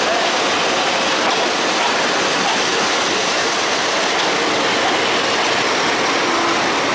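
Diesel-hauled passenger train rolling past at close range: a steady rushing noise of wheels on rails.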